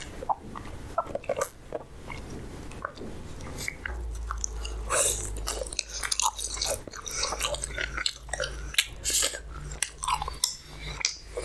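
Close-miked mukbang eating sounds: a person biting and chewing food, with many quick, irregular clicks and crunches.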